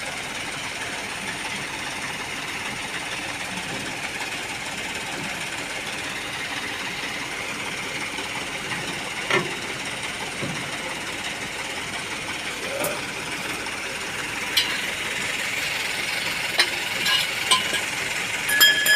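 A truck engine idling steadily, with several sharp metallic clanks in the last few seconds, some ringing briefly.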